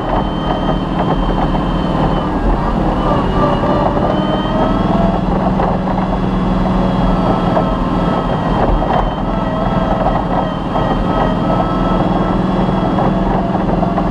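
Off-road rally vehicle's engine running hard at a steady, high pitch, its note shifting only slightly, over constant rough driving noise.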